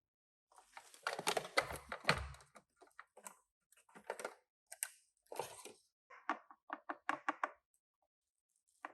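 Small toys and packaging being handled by hand: a run of sharp clicks, taps and short scrapes, with a few dull knocks about one to two seconds in.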